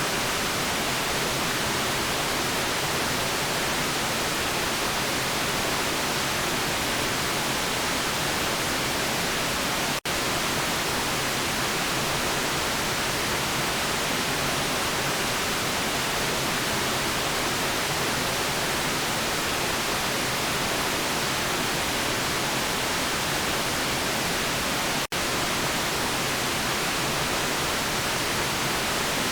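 Steady, constant white noise: an even hiss with no pitch or rhythm. It cuts out for an instant twice, like a loop seam.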